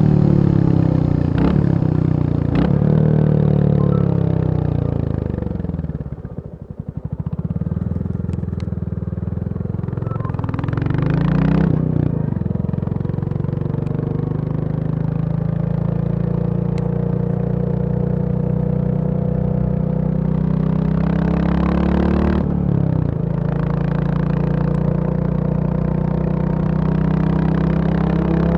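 Royal Enfield Bullet 350 single-cylinder engine running. It slows about six seconds in to a slow, low thump with the separate beats audible, then picks up again and runs steadily through the rest, with a few short clicks along the way.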